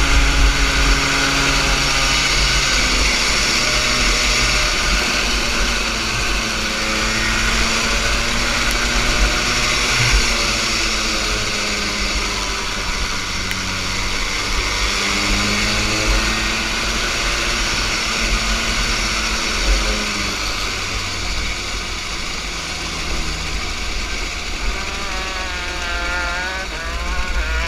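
Small junior kart engine running under changing throttle, its pitch rising and falling repeatedly through the course, with wind rush over the microphone.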